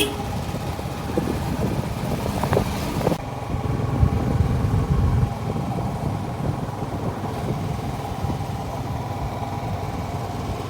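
Motor vehicle engine running steadily on the move, a continuous low rumble with some wind noise.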